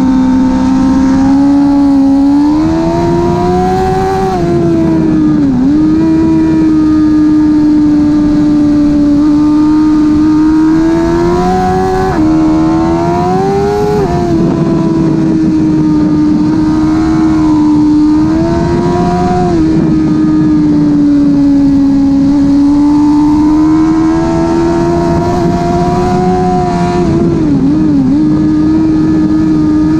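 2005 Suzuki GSX-R 1000 K5's inline-four engine through a slip-on exhaust, held at high revs under hard acceleration. Several quickshifter upshifts, each a slow climb in pitch cut by a sharp drop, and the revs fall near the end as the throttle closes.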